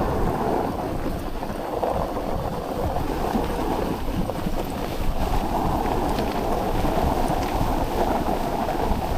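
Steady rushing noise of a dog sled moving over snow, with wind buffeting the microphone and a few faint ticks.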